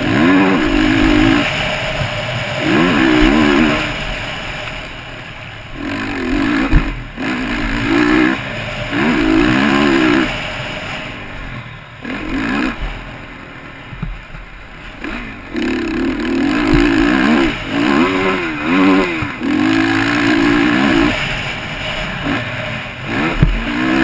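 Motocross bike engine revving hard and easing off over and over, its pitch climbing and dropping through short bursts of throttle. There is one sharp knock about seven seconds in.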